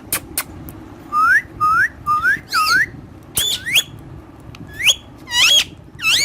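A pet parrot whistling a string of about ten short, clear notes, some dipping down and back up, others sweeping sharply upward.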